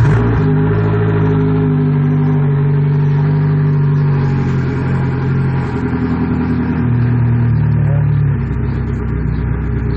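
JB 18 boat motor catching on a cold start and settling into a steady idle. It is running on a garden-hose flush for its cooling water.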